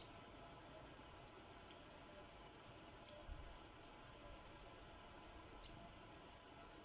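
Sparrows at a bird feeder making faint, short, high chirps, one every second or so. A soft low thud comes about three seconds in.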